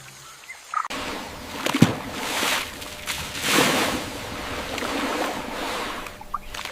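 Water splashing and sloshing, starting about a second in and swelling several times, with a short plop near two seconds.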